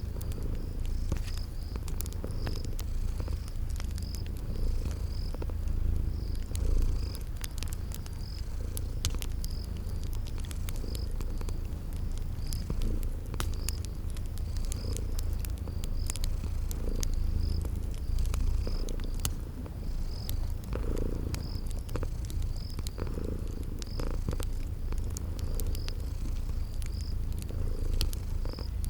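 Cat purring steadily in a continuous low rumble, with the scattered snaps of a crackling wood fire and crickets chirping about once a second.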